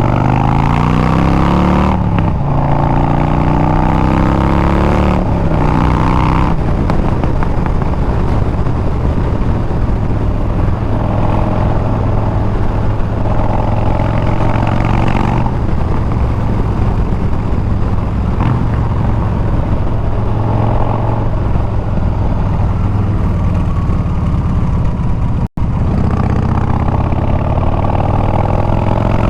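Harley-Davidson Milwaukee-Eight 114 V-twin through a Bassani straight-pipe exhaust, accelerating through two upshifts in the first few seconds, then running at a steady cruise. The revs climb again near the end, and the sound drops out for an instant shortly before that.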